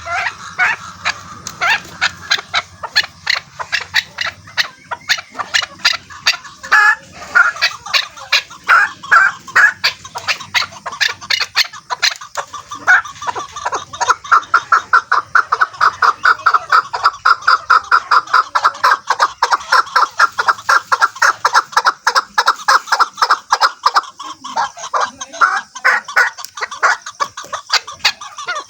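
Chukar partridge calling: a long, loud run of rapid repeated clucking notes, irregular at first and settling into an even, fast series of about three to four notes a second through the second half.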